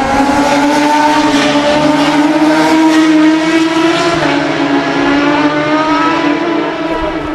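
Racing superbike engine running hard at high revs, its pitch climbing steadily, dipping once at an upshift about four seconds in, then climbing again.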